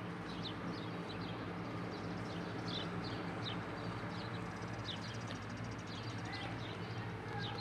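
Small birds chirping over and over in short, quick downward chirps, over a steady low engine hum.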